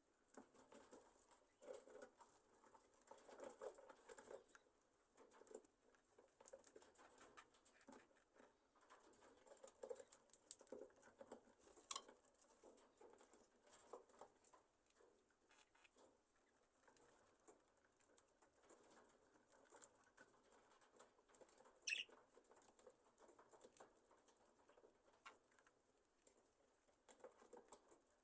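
Faint rustling, scratching and small clicks from a flock of budgerigars settling in their aviary, with a single short downward chirp about two-thirds of the way through.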